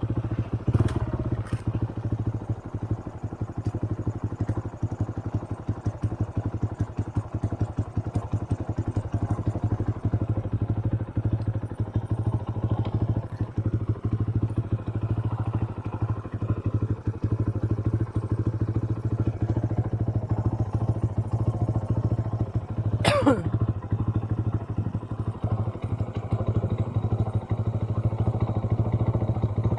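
Motorcycle engine running steadily on an off-road trail ride, with a dense rapid firing beat. About three-quarters of the way through, one sharp sound drops quickly in pitch.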